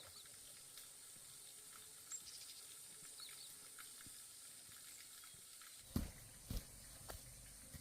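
Near silence: faint outdoor background with a few tiny high chirps, then three short, soft knocks in the last two seconds.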